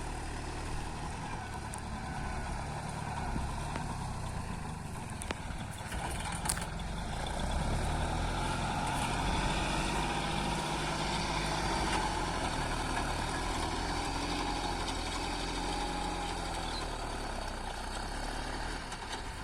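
Tractor engine running steadily. It grows somewhat louder for a few seconds in the middle, then eases back.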